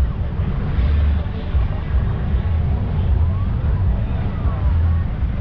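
Off-road vehicle engine running with an uneven low rumble, a faint whine rising and then falling midway through.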